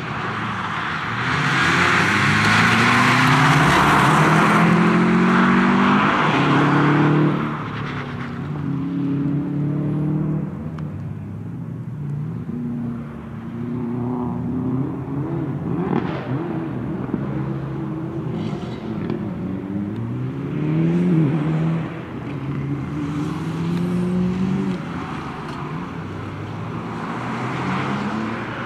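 Toyota GR Yaris's turbocharged three-cylinder engine revving hard as the car is driven through a timed course, the pitch climbing through the gears and dropping again and again under braking. A loud rushing noise rides over the engine for the first seven seconds, the loudest part.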